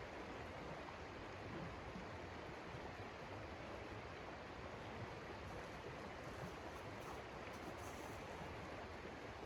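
Steady, even rushing noise of blizzard wind.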